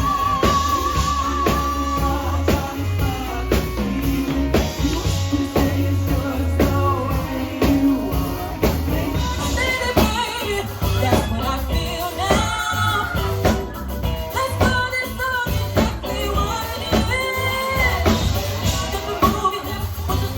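Live band playing a rock/pop song with drums, bass and a steady beat, and a lead voice singing, most prominent in the second half.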